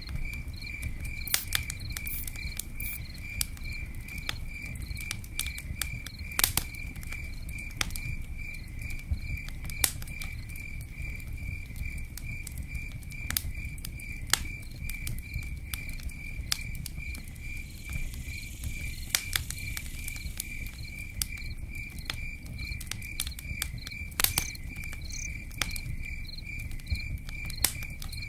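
Campfire crackling with scattered sharp pops, while a cricket chirps steadily at a few chirps a second, over a constant low rumble.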